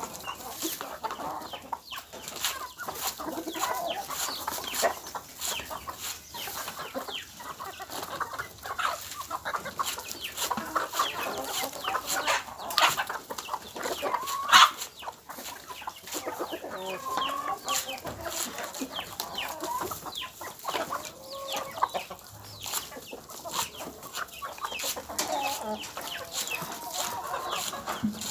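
Flock of chickens clucking continuously, mixed with many quick sharp clicks and taps, the loudest one about halfway through.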